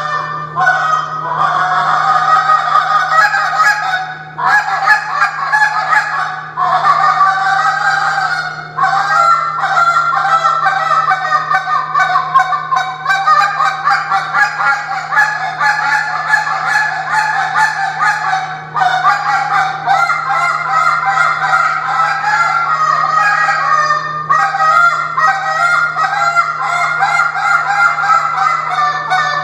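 Tim Grounds G Overhauler goose call blown in fast, continuous runs of honks and clucks, imitating Canada geese, with a few short pauses. A steady low hum runs underneath.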